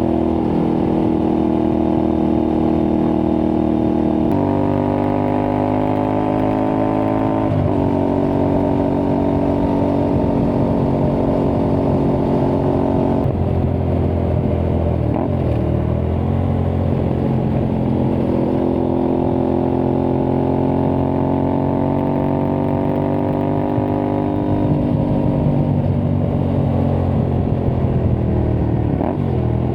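Aprilia Tuareg 660's parallel-twin engine through an aftermarket Akrapovic-replica exhaust, riding along. The engine note steps up about four seconds in, breaks briefly twice and dips near the end, and climbs slowly in between, with wind noise underneath.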